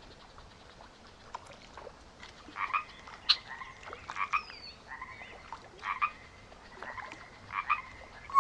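Frogs croaking in short repeated calls, roughly one a second, beginning about two seconds in.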